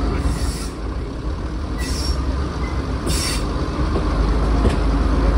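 Class 121 diesel railcar on the move, heard from an open window: a steady low rumble of wheels on track with running noise. Three short hissing flare-ups come through, about half a second, two seconds and three seconds in.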